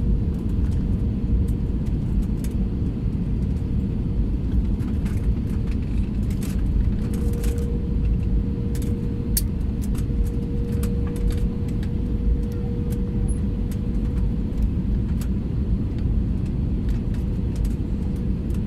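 Airliner cabin noise: a steady low rumble from the engines and airflow, with a constant hum just under 500 Hz and scattered light clicks and rattles.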